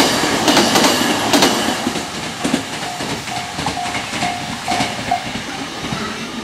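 A freight train passing close by, its wheels clacking over the rail joints, the sound fading as the train pulls away. From about three to five seconds in, a level-crossing warning bell rings in short repeated tones, then stops.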